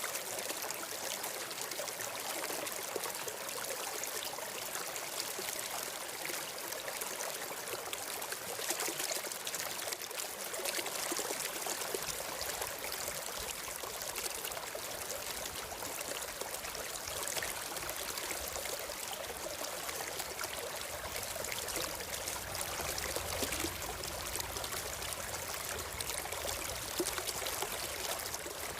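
Stream water flowing and trickling steadily. A low rumble joins underneath about twelve seconds in and stays.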